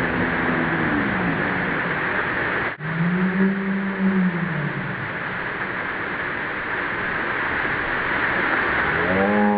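Steady rushing of a waterfall. A low droning tone glides up and falls away twice, and another rises and holds near the end.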